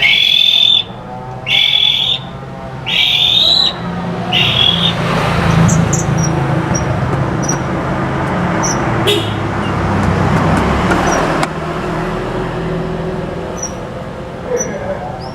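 A white-rumped shama (murai batu) sings four loud whistled phrases in the first four and a half seconds. Then a broad rumbling hiss swells and slowly fades, with a few faint high chirps near the end.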